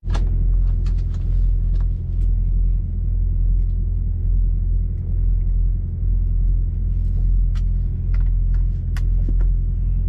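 Steady low mechanical rumble with a slow pulse in it, plus scattered light clicks and ticks.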